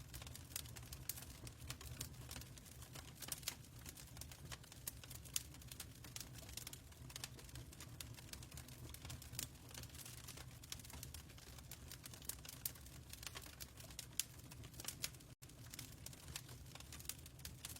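Quiet fireplace: a wood fire crackling with irregular sharp pops over a low steady rumble. The sound drops out for an instant about fifteen seconds in.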